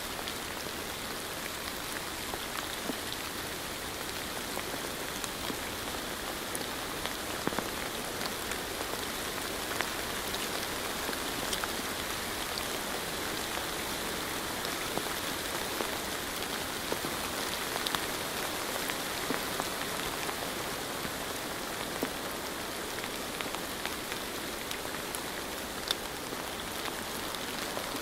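Steady rain falling, a continuous hiss with scattered sharper drop ticks standing out.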